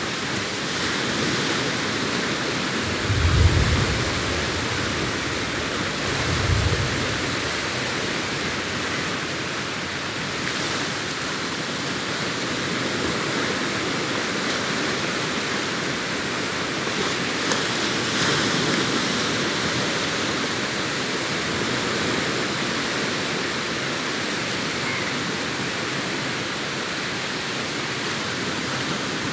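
Sea surf breaking and washing up a sandy beach in a steady wash of noise. Two brief low thumps come about three and six and a half seconds in.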